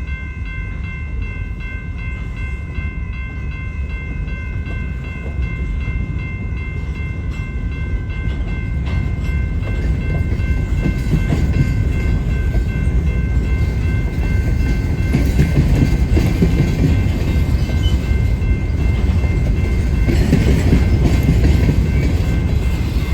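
Train rumbling and clattering, growing steadily louder as it approaches. Several steady high tones sound through the first half and then fade.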